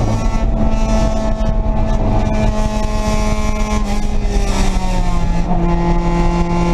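Race car engine running hard, heard from inside the stripped, caged cockpit, its pitch slowly sinking lower and settling onto a new, lower note about five seconds in.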